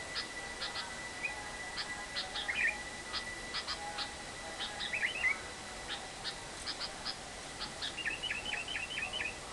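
Lovebird calling: sharp, short chips and a few quick rising squeaks, then a quick run of about six repeated notes near the end, over a faint steady high tone.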